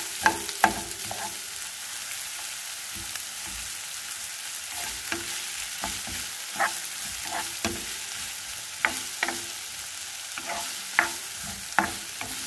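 Sliced ginger and onion sizzling in a hot pan on medium heat. They are stirred, and the utensil knocks and scrapes against the pan about a dozen times at uneven intervals.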